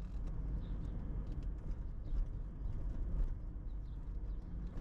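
Car driving slowly, heard from inside the cabin: a steady low rumble of engine and road noise with scattered light ticks.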